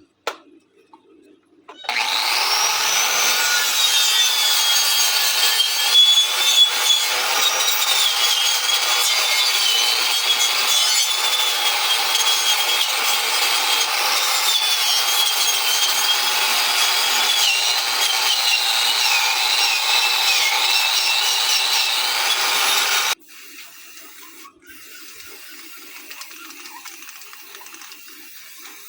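Angle grinder with a wire brush wheel scrubbing welded steel clean, a steady rasping run with a motor whine that wavers in pitch as it is pressed against the metal. It starts about two seconds in and cuts off suddenly a few seconds before the end.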